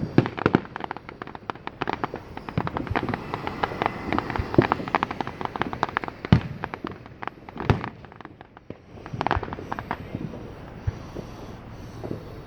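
Fireworks going off in quick succession: a dense stream of sharp pops and crackles with a few louder bangs mixed in every second or two.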